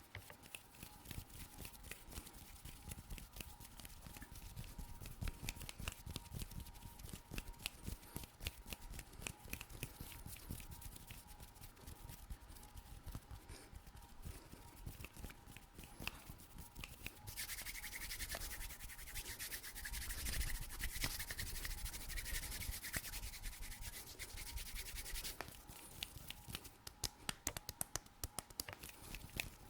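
Fast ASMR hand sounds close to a microphone: quick rubbing, scratching and tapping of skin, with a long denser stretch of continuous rubbing hiss past the middle.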